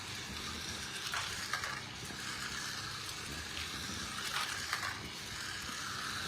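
Battery-powered toy race car running along a flexible plastic track: a steady rattling hiss of the small motor and wheels on the track segments, with a few sharp clicks.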